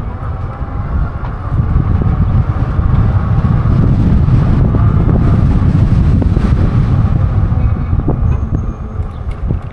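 Wind rumbling over the microphone of a moving e-bike, mixed with road and traffic noise. It swells in the middle and eases near the end.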